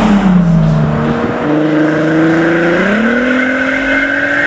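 Modified car's engine revving as it pulls away, its note holding low and then climbing about three seconds in. A thin high tone runs above it in the second half.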